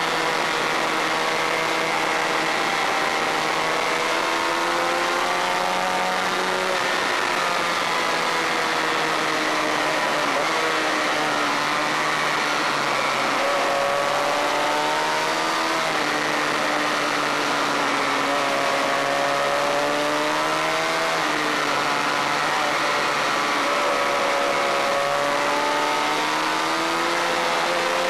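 Honda VFR400 race bike's V4 engine under hard acceleration, its pitch climbing and then dropping again and again as it revs up and shifts gear or rolls off for corners.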